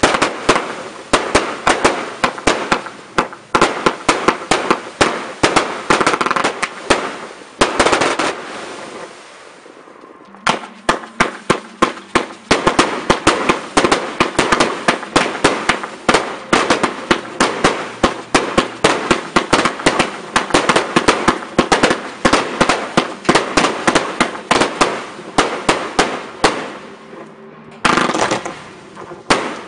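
Fireworks going off in rapid, dense volleys of sharp bangs and crackles. They die away for about two seconds a third of the way in, then start again abruptly, with another short break near the end.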